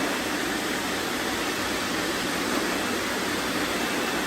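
Many robot vacuums running at once, their motors and brushes making a steady whirring hiss.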